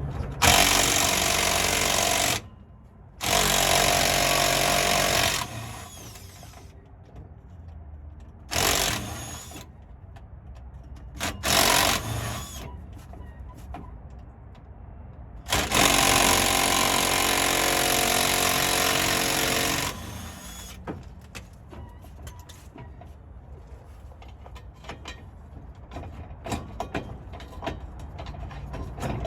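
Impact wrench hammering bolts loose in five runs, two of about two seconds, two short bursts, and a longer run of about four seconds, with faint metal clinks between them, while a 4L60E transmission is pulled from a junkyard truck.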